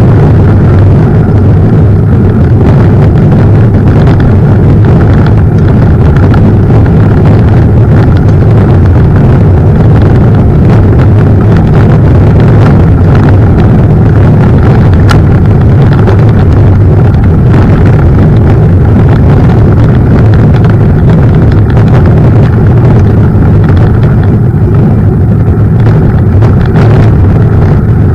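A mountain bike in motion: a loud, steady low rumble of wind and rolling on the microphone, with faint scattered clicks and knocks from the bike over the ground.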